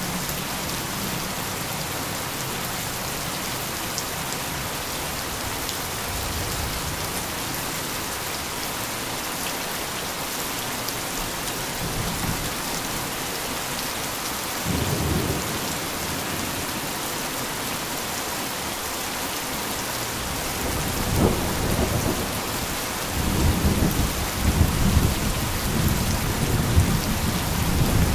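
Heavy rain falling steadily as an even hiss, with low rolls of thunder rumbling about halfway through and again, longer and louder, through the last third.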